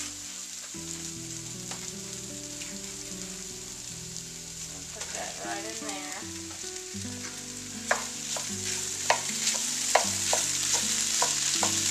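Ground beef and diced potatoes sizzling in an enamelled frying pan. From about eight seconds in, a wooden spoon scrapes and knocks against the pan in a run of sharp clicks as the meat is broken up.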